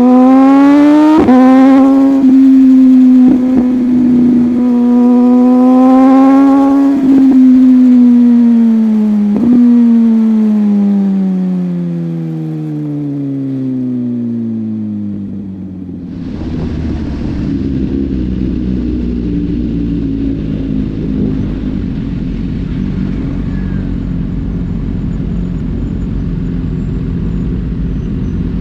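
Motorcycle engine accelerating hard through the gears: the pitch climbs and breaks briefly at each shift, then winds steadily down as the bike slows. About halfway through, this gives way to a steady rush of wind with a low engine rumble underneath.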